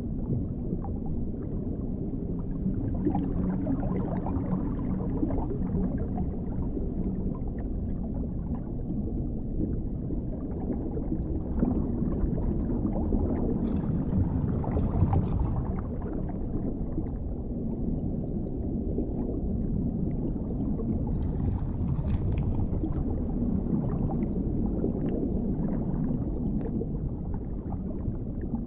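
Underwater ambience: a steady deep rumble with muffled gurgling and faint bubbling crackles, as heard beneath the water surface.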